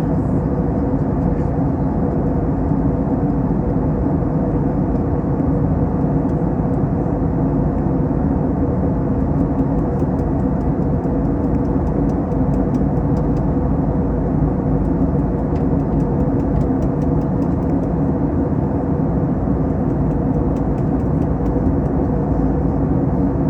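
Steady in-flight cabin noise of an Airbus A321 on descent: an even rush of engine and airflow noise with a steady low hum.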